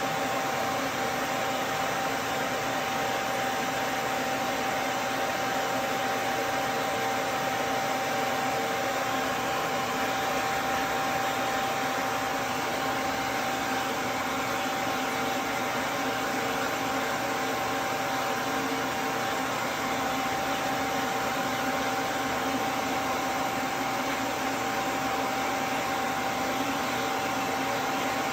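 Duz V3 pet dryer running steadily, a constant blowing noise with a steady whine on top, drying a dog.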